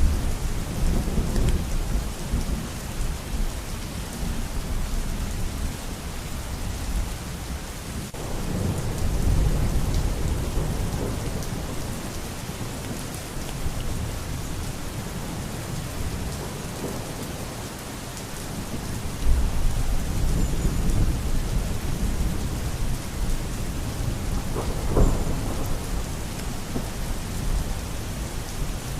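Steady rain falling, with deep thunder rumbles swelling and fading several times and a sharper thunderclap near the end.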